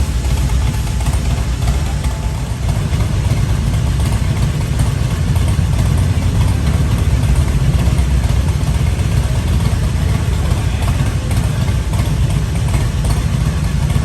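An engine idling steadily with a continuous low rumble.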